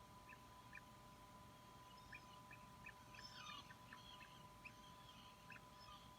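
Faint, repeated short peeps of a puffin chick, with a burst of scratchier calls about three seconds in, over a steady thin hum.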